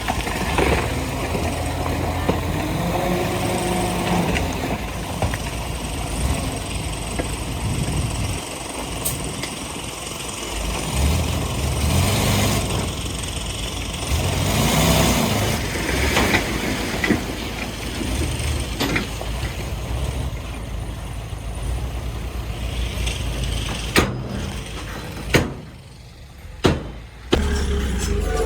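Heavy diesel earthmoving machinery running, its engine pitch rising and falling a few times, with several sharp knocks near the end.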